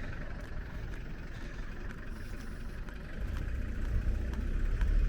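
Low rumble of a car's engine and road noise that grows louder about three seconds in.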